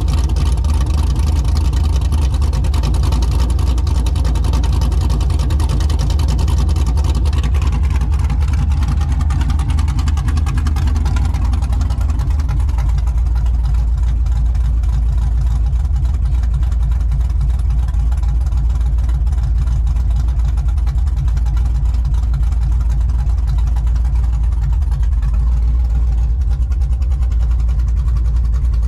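Cammed 5.3-litre LM7 V8 of a 2000 Chevrolet Silverado, fitted with a TSP 224R cam and long-tube headers, running loud with a deep, low-heavy exhaust note. The sound is harsher for the first seven seconds or so, then settles to a steadier, deeper note.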